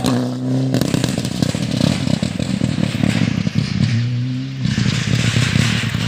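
Rally car engine at full throttle as the car passes, with a harsh, rattling rasp. A steady engine note returns about four seconds in.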